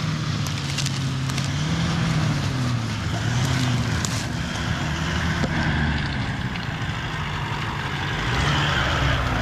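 Toyota LandCruiser 79's V8 turbo-diesel engine working hard up a slippery hill, its revs rising and falling.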